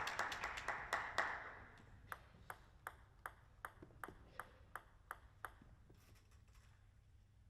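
A table tennis ball bouncing about ten times in a steady rhythm, roughly two and a half bounces a second, as a player readies to serve. Applause dies away at the start.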